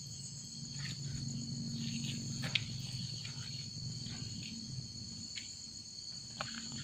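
Night insect chorus, crickets trilling in a steady high ring, over a low steady hum, with a few faint scattered ticks.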